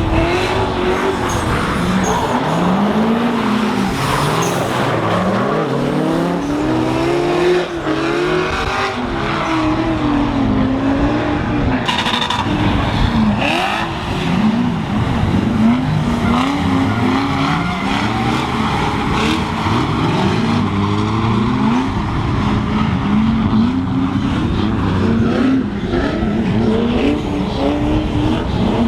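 Drift cars on a wet track, their engines revving up and dropping again and again as they are driven sideways, with tyre skid noise underneath. At times more than one engine is heard at once.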